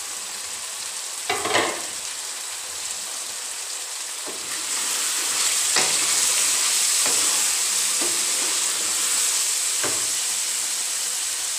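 Tinda (apple gourd) sizzling in a kadhai, the sizzle getting louder about four seconds in as a wooden spatula stirs them. The spatula scrapes the pan in a handful of short strokes.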